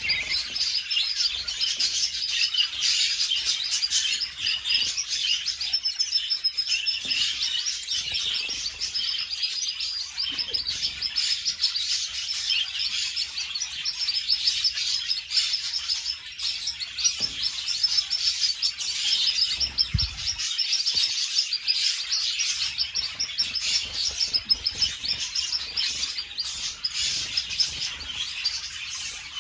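Domestic canaries chirping and singing in rapid, unbroken trills, with a brief low thump about two-thirds of the way through.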